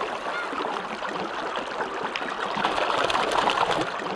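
Shallow, fast-flowing stream water running over stones, a steady babbling rush with small splashes, a little louder about three seconds in.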